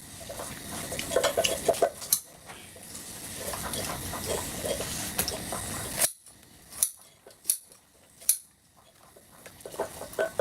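Clatter of dishes and metal utensils over a steady hiss for about six seconds. The hiss then cuts off suddenly, leaving a few separate sharp clicks.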